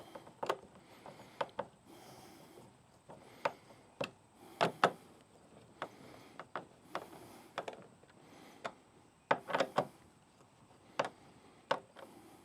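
Socket ratchet wrench and metal hardware giving scattered clicks, with a few short scrapes, as a bolted joint on a kayak cart's crossbar is snugged hand tight.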